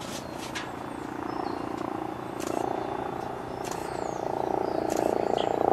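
Helicopter approaching, its rotor chop growing steadily louder as it nears. It is a Eurocopter flying on one engine after the other was shut down. Short high chirps, like small birds, come and go over it.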